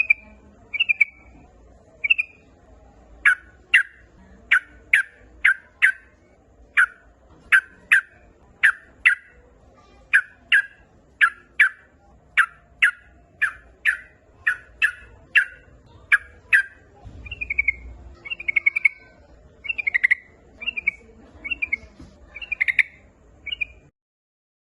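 Yellow-vented bulbul (trucukan) calling. It gives a few short chirps, then a long run of sharp, clipped notes at about two a second. Near the end it goes back to quicker, softer chirps, then stops suddenly.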